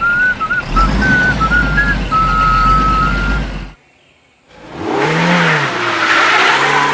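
A vehicle engine runs with a high wavering whine and stops about four seconds in. Near the end an engine revs up and back down.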